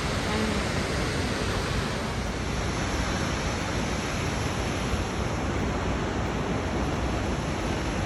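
Steady rushing of Toketee Falls, a waterfall on the North Umpqua River.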